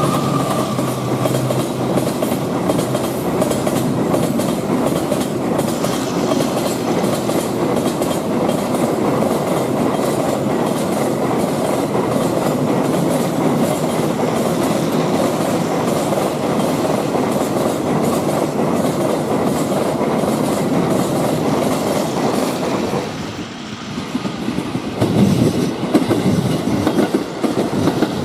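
A train running along the track: steady rumble with a regular clickety-clack of wheels over rail joints. A held horn note fades out at the very start, and near the end the rumble drops briefly, then comes back louder and more uneven.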